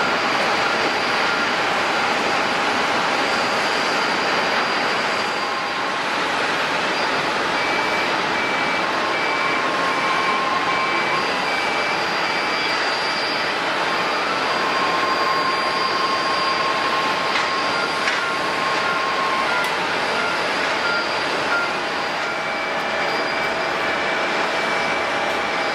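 Steady roar of jet airliner engines on the airport apron, with several high steady whines over it. A repeating high beep comes in for a few seconds about a third of the way in and again near the end.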